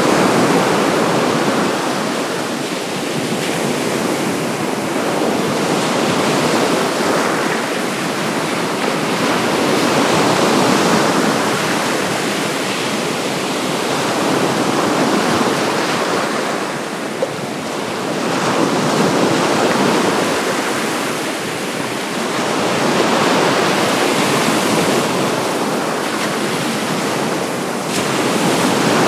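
Baltic Sea waves washing onto the shore: a steady rush of surf that swells and eases every few seconds.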